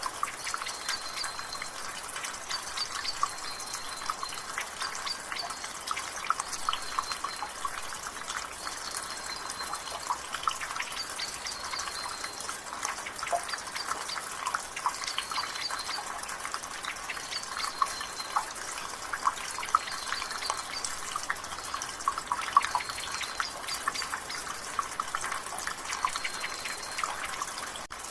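Rainwater dripping and splattering steadily from a gutter in many irregular drops, over a soft rain hiss. A bird gives a short high call that repeats every couple of seconds.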